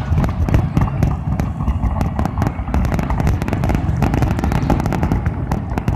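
Fireworks finale barrage: a rapid, unbroken run of booms and crackling bangs.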